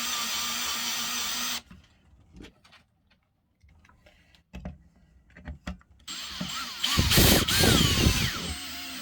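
A handheld power tool motor runs with a steady whine and cuts off abruptly about a second and a half in, followed by a few light clicks and knocks of handling. About six seconds in a motor starts again, loudest for a second or so with its pitch rising and falling.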